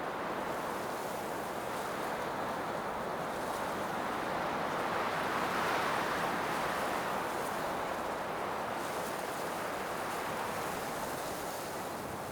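Blizzard wind blowing in a steady rush, swelling to a stronger gust around the middle and easing off toward the end.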